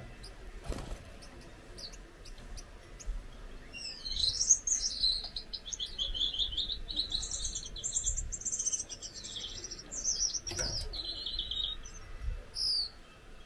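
Gouldian finch singing a long, high, buzzy song of rapidly repeated notes, starting about four seconds in and ending near the end. Two short knocks come once early on and once near the song's end.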